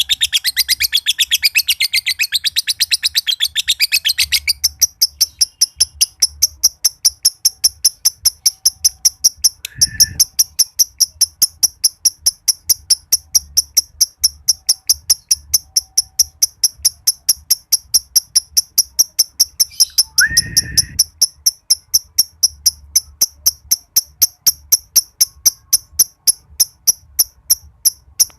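Green adult male lovebird chattering in a long, dense trill for the first four seconds or so, then switching to a fast, even run of high ticks, about four a second. Two short chirps break in, about ten and twenty seconds in.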